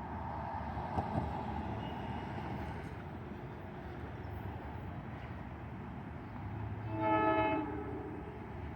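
Commuter train running with a steady rumble, and one short horn blast about seven seconds in.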